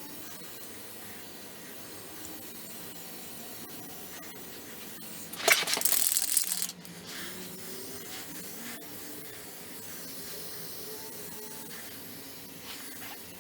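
Aerosol can of Fluid Film oil undercoating sprayed in one loud hissing burst of a little over a second, about five and a half seconds in. Faint rubbing and handling sounds under the car otherwise, with a short faint hiss near the end.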